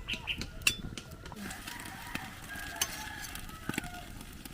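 Chickens clucking and calling faintly, with scattered sharp clicks.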